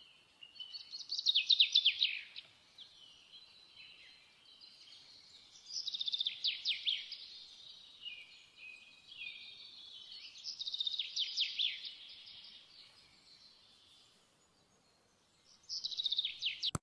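Birdsong: a small bird repeating a fast, high trilling phrase of quick falling notes about every four to five seconds, with softer chirping between the phrases.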